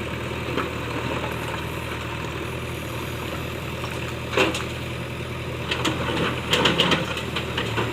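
Heavy diesel engine idling steadily, with a sharp knock about halfway through and a cluster of knocks near the end.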